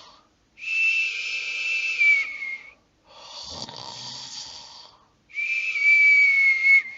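Comic cartoon-style snoring by a person, twice over: a quieter raspy snore breathing in, then a louder long whistle breathing out that slides slightly down in pitch.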